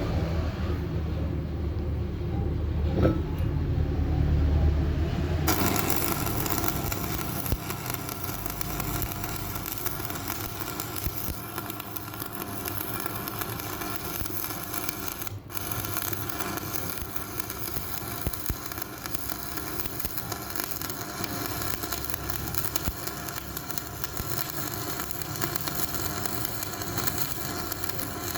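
Electric arc welding on a cracked steel truck wheel rim: after a low rumble, a steady hissing crackle starts suddenly about five seconds in and runs on, with a brief break about halfway.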